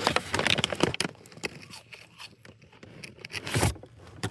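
Crinkling of paper food wrappers and crunching bites of extra-crispy French fries, with a burst of crackly clicks in the first second and another loud crunch near the end.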